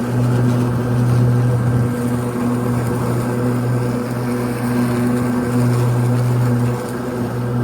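Ryobi 80V electric riding lawn tractor mowing with its blades at medium speed: a steady low hum from the motors, swelling and dipping slightly, over the rush of the cutting deck in grass.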